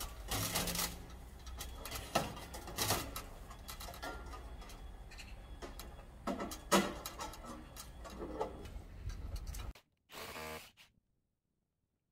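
Irregular knocks, clicks and rubbing of hand work on an installation site. The sound cuts off abruptly about ten seconds in, leaving near silence after one short burst.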